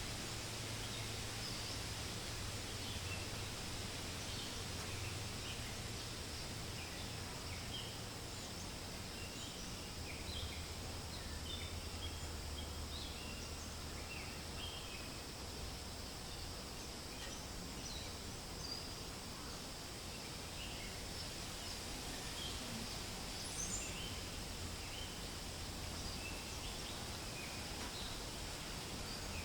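Forest ambience: wind rustling through leaves over a low steady rumble, with many short, high bird chirps.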